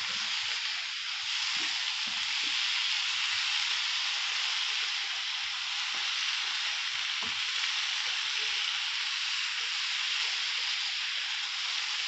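Shredded chicken and onion filling sizzling in oil in a frying pan as it is stirred with a silicone spatula: a steady frying hiss with faint, scattered soft knocks of the spatula against the pan.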